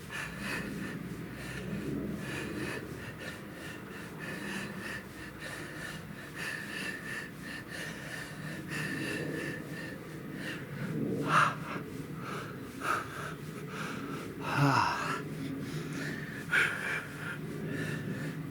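Heavy, wheezing breathing of a man pedalling hard on an exercise bike, labouring on a steep hill in the ride. A few louder exhales come about 11, 15 and 17 seconds in.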